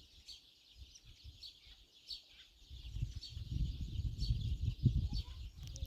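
Birds chirping over a steady high chorus, with a short chirp repeating about once a second. A low rumbling noise comes in about halfway through and is the loudest part.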